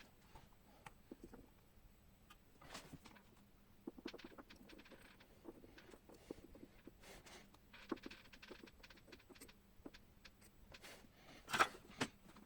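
Faint, scattered clicks and taps of small tools and wires being handled during soldering work on a flashlight circuit, with a louder knock near the end.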